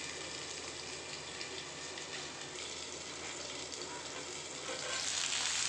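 Raw banana slices frying in oil in a lidded steel kadai: a steady sizzle that grows louder near the end as the lid is lifted off.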